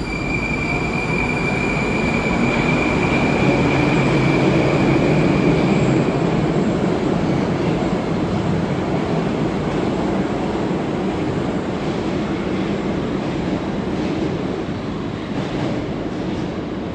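Moscow Metro train running through the station: a heavy rumble of wheels and motors that builds over the first few seconds and then slowly eases off. A steady high whine sounds over it for the first several seconds, then fades.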